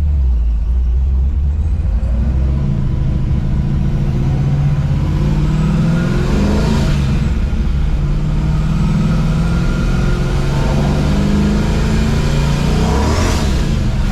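Classic muscle car's engine and custom exhaust running on the road, the engine note climbing about two and a half seconds in and then holding steady under load.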